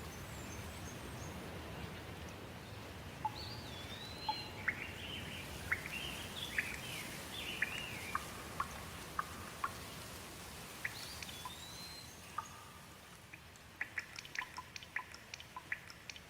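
Steady light rain with songbirds singing whistled, gliding phrases. Near the end the rain hiss eases and quick sharp drips tick in a rapid run.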